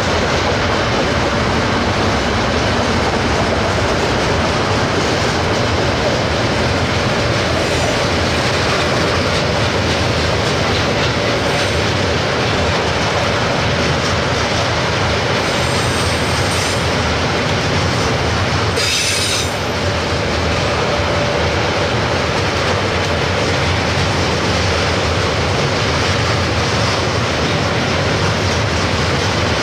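Wagons of a heavy KiwiRail freight train rolling past on a curve: a steady rumble and clatter of wheels on rail, with a faint steady wheel squeal. A short sharp burst of noise stands out about two-thirds of the way through.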